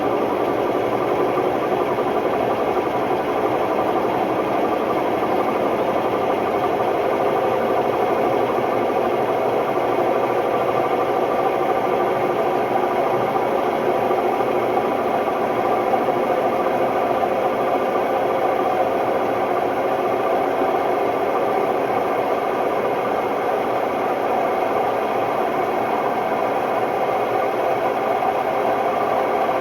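Hotpoint Ultima WMD960 washing machine on its spin cycle, the drum turning with an extremely noisy, steady mechanical drone and rattle: the sign of bad drum bearings.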